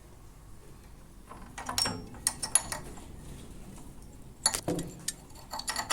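Light metallic clicks and rattles in two clusters, one near the start and one near the end, as of metal parts being handled on a small mower engine.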